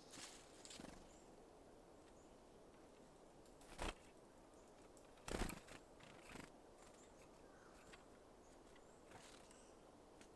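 Quiet background broken by a few sharp taps from small birds at a seed feeder: one about four seconds in, a louder pair around five and a half seconds, and a softer one a second later.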